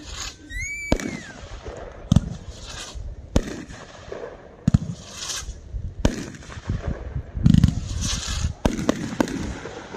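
A 24-shot consumer fireworks cake from Four Seasons Fireworks firing: sharp shots about every second and a half, each followed by a hiss of noise, with a short falling whistle near the start.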